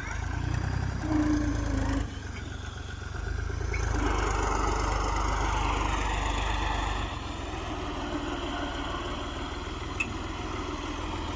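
Fiat 480 tractor's diesel engine running, its sound swelling twice as it picks up and eases off, with a single short click near the end.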